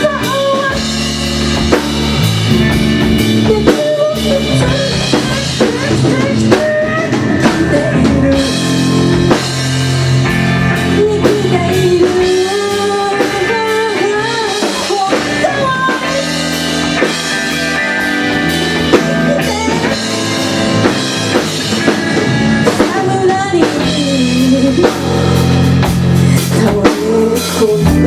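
Rock band playing live: drum kit keeping a steady beat under electric guitar, with a melodic lead line on top.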